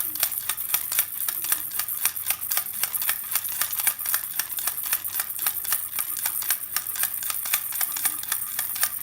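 Rapid, steady clicking or tapping, several sharp clicks a second, like a typewriter.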